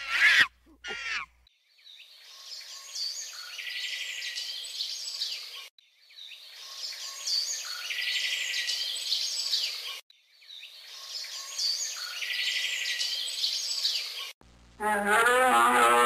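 House sparrow chirping and twittering, the same four-second run of calls heard three times over. It opens with two loud, falling animal calls, and a low, wavering animal call starts near the end.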